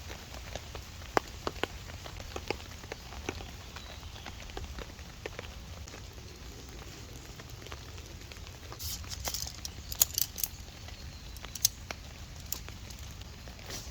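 Rain falling on a tarp, individual drops tapping at irregular intervals over a steady hiss, with a short spell of sharper clicks and rustling about nine to ten seconds in.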